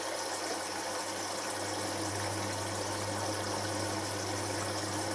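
Hotpoint HF8B593 washing machine running through the first rinse of its synthetics cycle: a steady low hum over an even wash of noise, with the hum growing a little stronger about a second and a half in.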